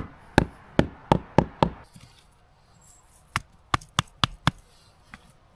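Wood being chopped with a hand tool: two quick runs of about six sharp strikes each, roughly three a second, with a pause between and one fainter strike near the end.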